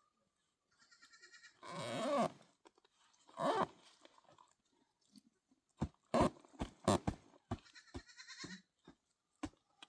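Goats bleating: two loud, wavering bleats in the first few seconds and a fainter one later. From about six seconds in comes a run of sharp knocks, roughly two a second.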